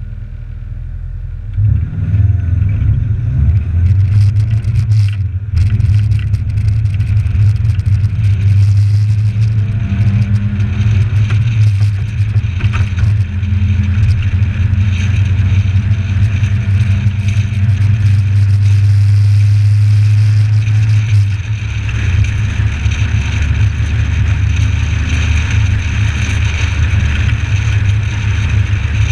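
Suzuki Samurai's four-cylinder engine pulling away from a stop about two seconds in, then running under load at road speed as a strong, steady low drone with road and wind noise over it. The engine note drops lower about three quarters of the way through.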